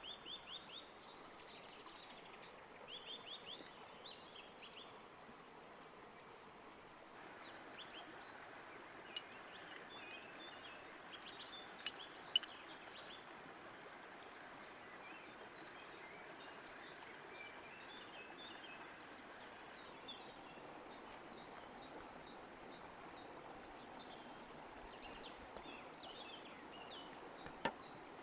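Birds chirping and trilling in short repeated phrases over a steady wash of a running creek, with a few sharp clicks or snaps scattered through.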